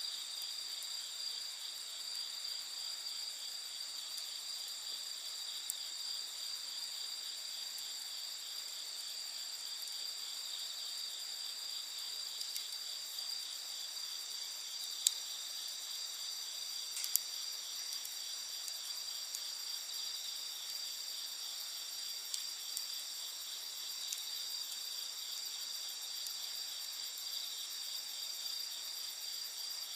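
A steady chorus of night insects singing in several high, unbroken tones. A few sharp pops from a crackling campfire stand out, the loudest about halfway through.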